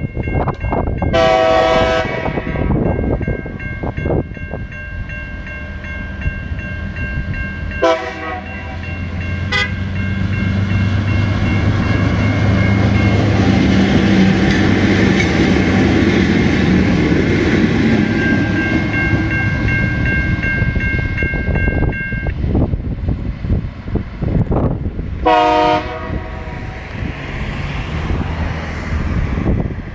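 Two TasRail TR-class diesel locomotives running light: a horn blast about a second in, two short toots around eight and ten seconds, then the engines pass loudly with a low rumble through the middle. A level crossing warning bell rings steadily underneath, and another horn blast sounds near the end.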